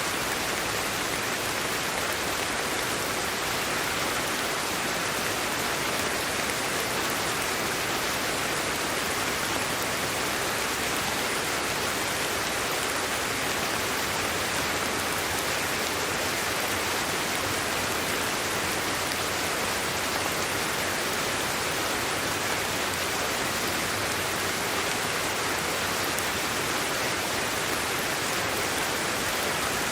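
Steady sleep-aid white noise: an even, unchanging hiss with no breaks or individual drops standing out.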